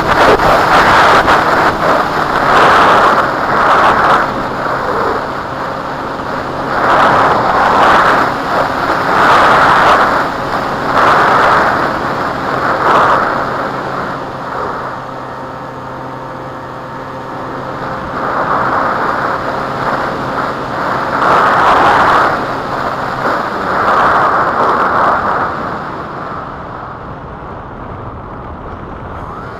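Strong gusty wind buffeting the microphone, swelling and fading every second or two. A faint steady hum runs underneath.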